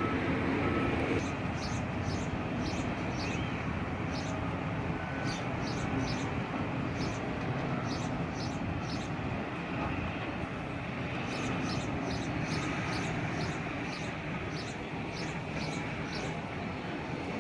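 Steady rumble of construction machinery, with a run of short, high ticks repeating irregularly over it.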